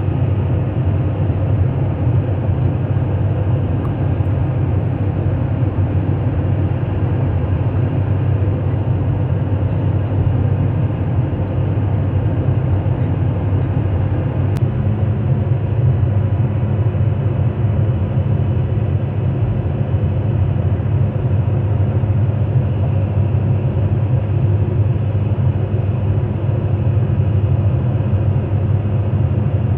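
Sany SR150C rotary drilling rig's diesel engine running steadily as the rig travels on its tracks, a low, even drone. About halfway through, a second, higher hum joins in and holds.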